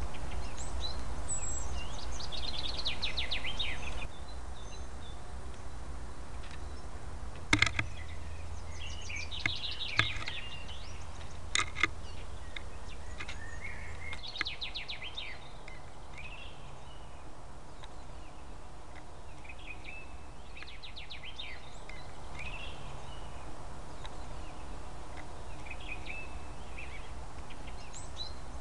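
Songbirds singing short, fast-trilled phrases again and again every few seconds. A few sharp clicks or knocks come between about 8 and 12 seconds in, over a steady low background rumble.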